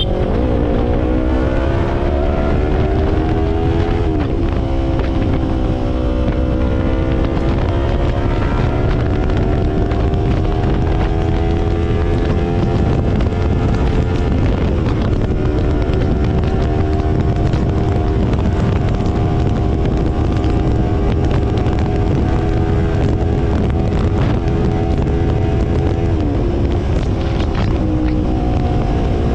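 Yamaha YZF-R3's 321 cc parallel-twin engine and exhaust running at highway speed, its note rising and falling with the throttle and dropping sharply at gear changes about four seconds in and again near the end, over heavy wind rush on the microphone.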